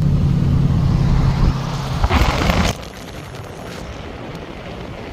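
Wind rush and car road noise on a phone microphone held out of a moving car's window, with a steady low drone and a loud gust of wind noise; about two and a half seconds in it drops suddenly to a quieter steady rushing.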